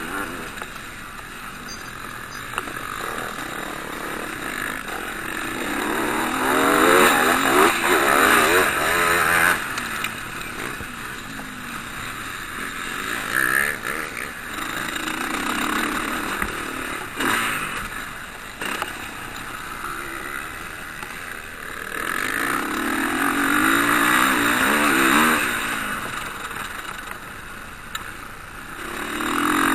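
Motocross bikes racing past, engines revving up and down as they accelerate and shift. The sound swells as bikes pass about six to ten seconds in and again around twenty-two to twenty-six seconds, with another pass starting near the end.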